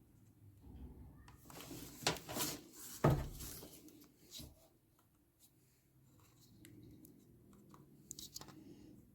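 A few knocks and scrapes of tools and parts being handled, the loudest about two to three seconds in, then a quiet spell and a couple of light clicks near the end.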